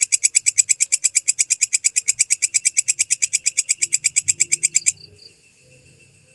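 Belalang kecek (walang kecek) insect calling: a fast, even, high-pitched chirping pulse train, about ten pulses a second, that stops abruptly about five seconds in, leaving only a faint background.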